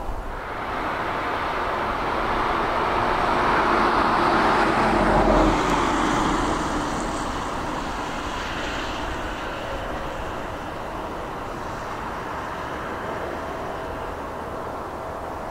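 Jet airliner engines passing by, the noise swelling to a peak about five seconds in and then fading to a steady lower rumble, with a high whine that sinks in pitch as it passes.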